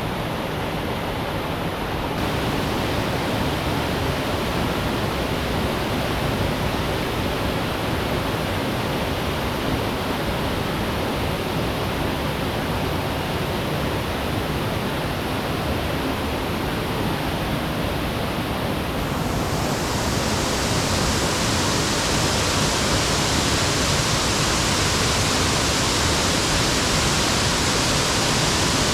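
Steady rush of falling water from a waterfall and stream rapids. It turns sharply brighter and hissier about two-thirds of the way through.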